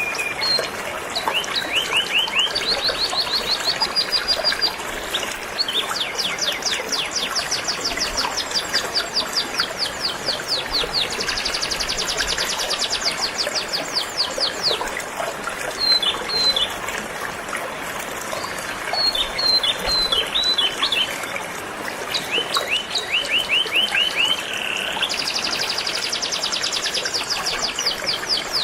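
Canary singing in phrases of fast trills, each a rapid run of repeated chirps lasting a few seconds with short breaks between, over the steady rush of a flowing river.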